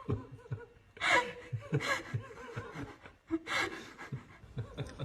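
A person laughing in short breathy bursts, with three louder peaks.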